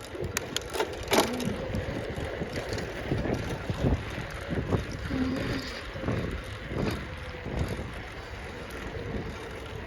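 Bicycle in motion: tyre rumble on the road and rattling of the bike, with wind buffeting the microphone. A few sharp clicks and rattles stand out in the first second or so.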